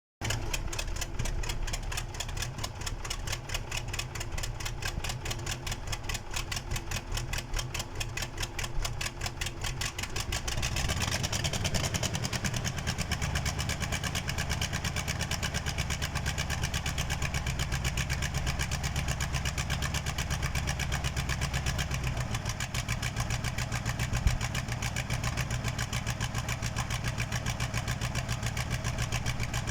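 Freshly overhauled KamAZ truck diesel engine on its first start after the rebuild: it turns over rhythmically for about ten seconds, catches about eleven seconds in, and settles into a steady, deeper idle. A single short knock comes near the end.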